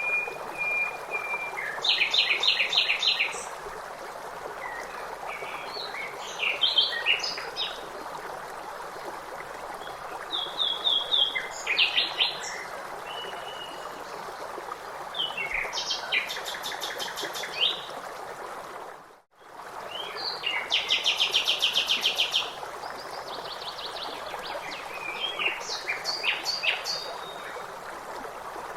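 Songbirds singing in repeated short phrases, several of them fast trills, over a steady rush of flowing water. About two-thirds of the way through, the sound briefly dips almost to silence.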